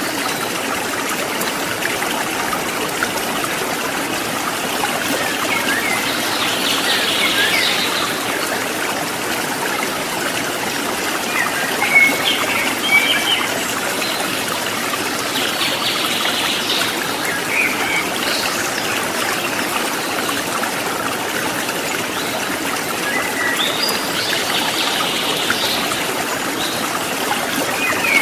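Stream water babbling steadily, with small birds chirping briefly several times over it.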